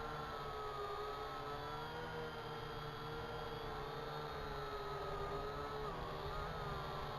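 Syma X8HG quadcopter's motors and propellers whirring steadily, the whine drifting gently up and down in pitch as the throttle shifts, over a low wind rumble.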